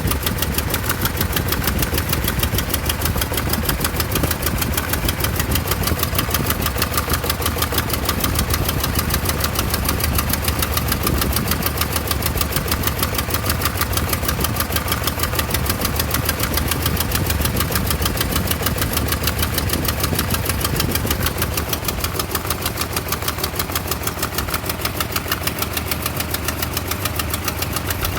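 1988 Toyota pickup's 22R four-cylinder engine with an Aisin carburetor, idling roughly after a head gasket replacement, with a steady, rapid, even pulsing throughout.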